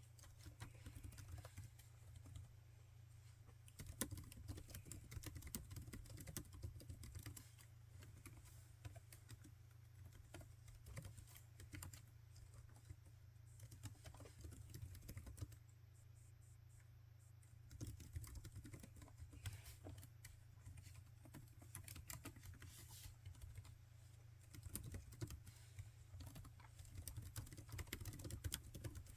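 Typing on a laptop keyboard: runs of soft, quick key clicks broken by short pauses, the longest about two seconds a little past the middle.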